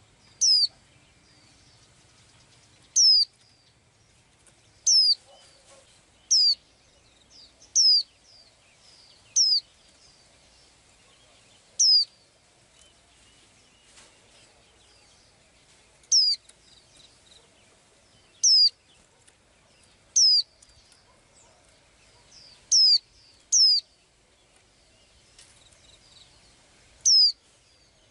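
A small bird calling over and over: a single short, high note that falls steeply in pitch, repeated about thirteen times at uneven gaps of one to four seconds.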